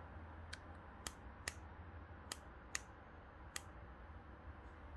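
Light sharp clicks and taps of small parts being handled on a bicycle's hydraulic disc brake caliper, about six ticks at uneven intervals over a faint low hum.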